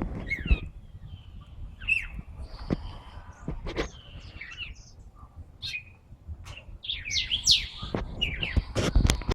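Several caged songbirds chirping and calling in short, sweeping notes, with a few sharp knocks among them.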